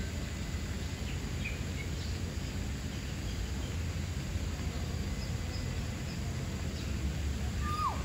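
Outdoor bird-park ambience: a steady low rumble with faint, scattered bird chirps, and near the end a single short whistled bird call that drops sharply in pitch.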